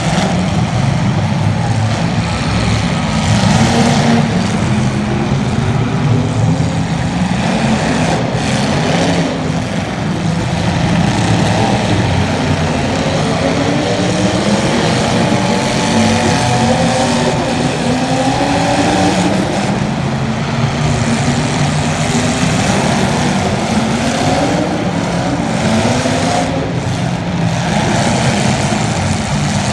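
Racing engines of several cars running and revving together, their pitches rising and falling and overlapping.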